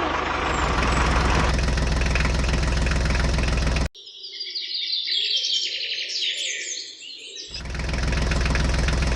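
A tractor-style engine running steadily with a low, even pulse, cut off abruptly about four seconds in for roughly three and a half seconds of birds chirping, after which the engine sound resumes.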